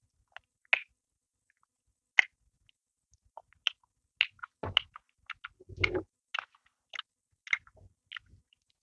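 Close-miked chewing of a mouthful of bread roll: irregular wet mouth clicks and smacks, with two fuller, deeper chewing sounds about halfway through.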